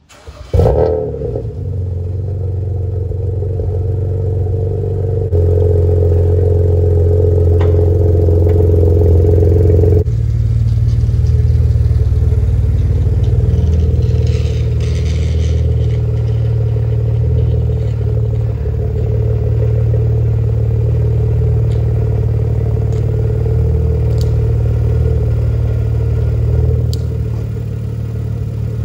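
BMW E90 3 Series straight-six starting up about half a second in, then running steadily through its exhaust; its tone shifts twice in the first ten seconds as the car is moved slowly out of the garage.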